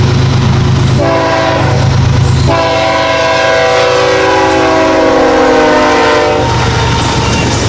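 Locomotive multi-chime air horn sounding over the low rumble of a passing train: a short blast about a second in, then a long blast whose pitch drops slightly as the train goes by, cutting off near the end.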